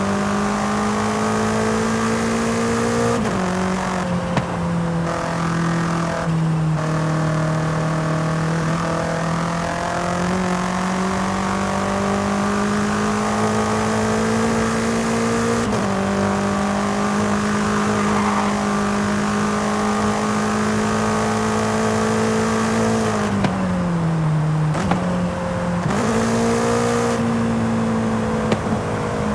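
BMW M5 CS twin-turbo V8 engine pulling at moderate, fairly steady revs while driving. The pitch steps down twice in the first seven seconds as it shifts up, jumps up once around the middle, falls away as the car slows about three quarters of the way through, then steps back up.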